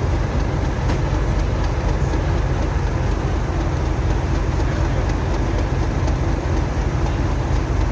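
Class 37 diesel locomotive idling: a steady low rumble.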